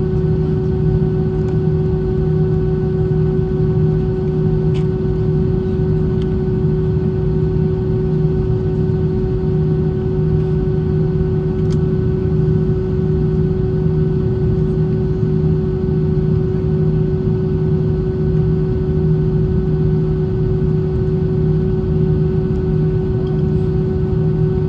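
Airbus A320 cabin noise: a steady engine drone and rush of air with a constant hum, holding level with no change in power.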